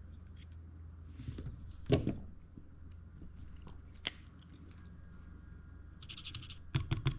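Small clicks, knocks and scrapes of tools and parts being handled at a soldering bench, over a steady low hum. The loudest knock comes about two seconds in, a brief hiss about six seconds in, and rattling handling noise near the end.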